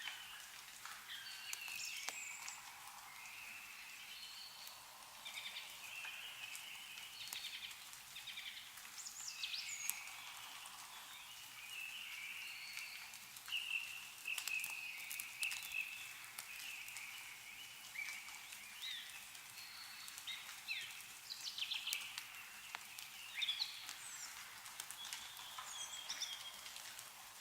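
Several small birds chirping and twittering in short overlapping calls, with scattered sharp ticks of meltwater dripping from snow-laden trees.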